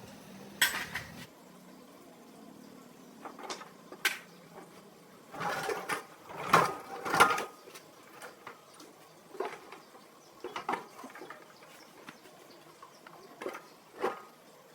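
Irregular knocks and clatter of hard objects being handled, a dozen or so separate strikes, loudest in a cluster around the middle.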